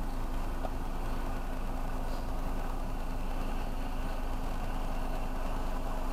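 Car engine idling, a steady low hum heard from inside the cabin of the stopped car.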